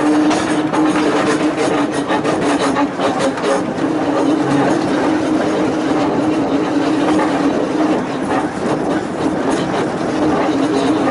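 Volk's Electric Railway car running along its narrow-gauge track: a steady hum with a stream of clicks and rattles from the wheels over the rails.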